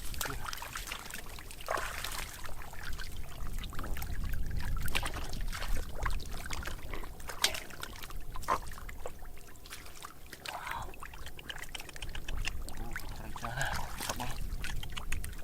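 Water pouring and trickling, with many small splashes and knocks scattered through it.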